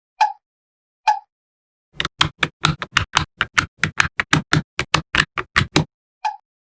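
Small magnetic balls clicking as they snap together. Two single, slightly ringing clicks, then from about two seconds in a fast run of about twenty sharp clacks, roughly five a second, then another single click near the end.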